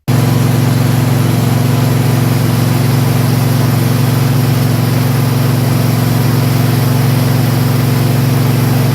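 Cub Cadet XT2 LX46 riding lawn mower's engine running steadily, freshly serviced with new oil, oil filter, fuel filter and air filter.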